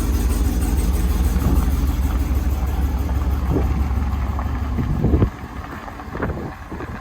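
Car engine running with a steady low rumble that cuts off about five seconds in, leaving a few faint knocks.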